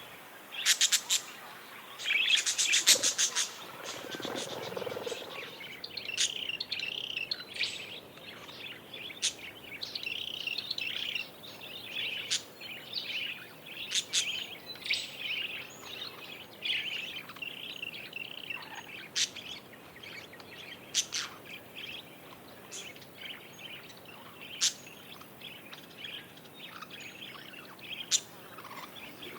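Budgies (budgerigars) warbling and chirping in continuous chatter. A louder, harsher burst of chatter comes about three seconds in, and short sharp ticks are scattered through it.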